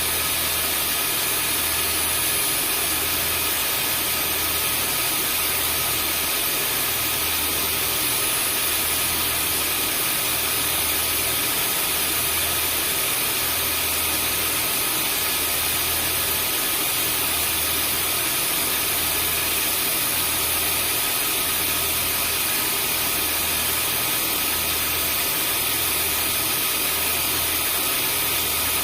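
Vacuum cleaner running steadily: an even rush of air with a high motor whine, and a low hum that throbs about every second and a half.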